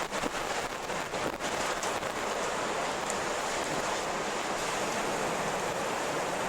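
Strong wind blowing as a steady rushing noise, with a few faint brief crackles in the first second or so.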